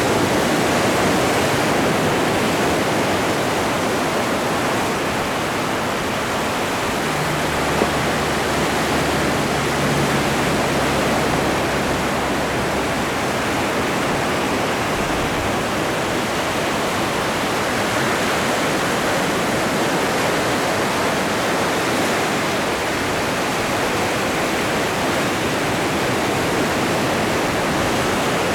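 Atlantic Ocean surf washing onto the shore: a continuous rushing noise with gentle swells.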